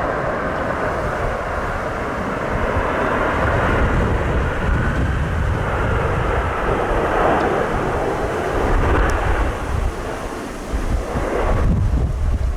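Jet airliner passing on landing approach, its engine whine falling slowly in pitch over a broad roar, with strong wind buffeting the microphone.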